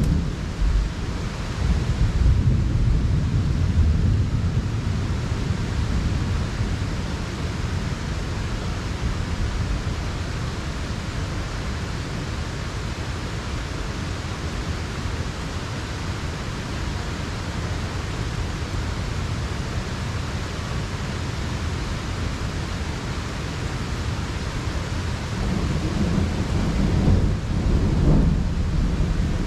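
Heavy rain pouring steadily in a thunderstorm. Low thunder rumbles through the first few seconds and rolls in again near the end.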